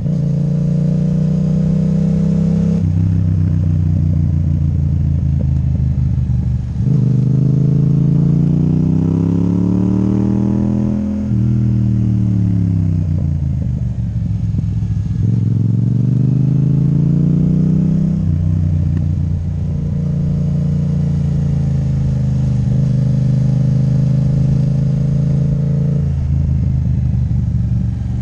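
Yamaha MT-07's parallel-twin engine running through an Akrapovic titanium exhaust with the dB killer removed, while riding. The engine note climbs steadily for a few seconds, falls back as the throttle is rolled off, climbs again, then holds steady at cruise.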